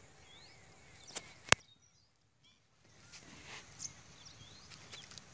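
Small birds chirping now and then, with short rising whistle-like notes over faint outdoor background noise. About one and a half seconds in comes a single sharp click, the loudest sound, and the sound then drops almost to nothing for about a second.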